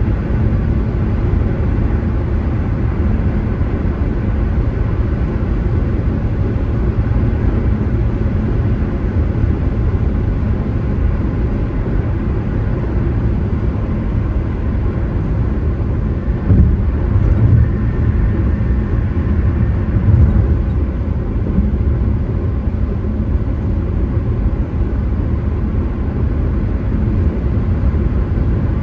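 A car driving: steady low road and engine rumble, with two brief louder bumps a little past the middle.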